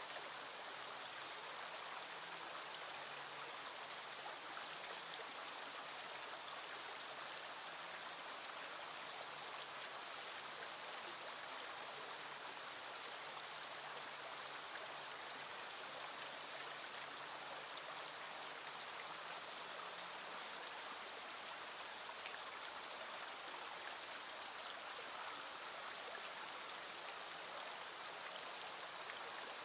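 Small stream flowing steadily, with rain falling.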